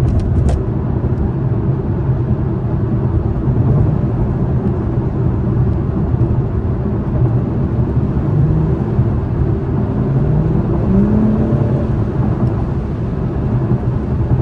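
2021 Acura TLX Type S's turbocharged V6 and tyre/road noise while driving, heard from inside the cabin. The engine note rises a few times as the car accelerates, most clearly in the second half.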